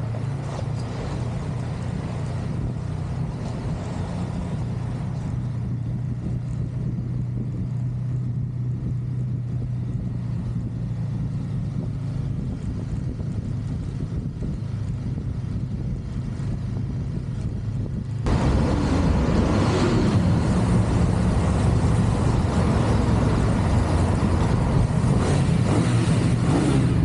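Motorcycle engine running at steady cruising speed with road and wind noise. About two-thirds of the way through, the sound jumps abruptly louder, with much more wind rush.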